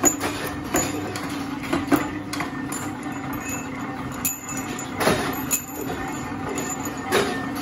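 Mechanical punch press running with a steady motor and flywheel hum, with sharp metallic clanks at irregular intervals of about a second or two as the ram comes down and shears 12 mm round steel bar.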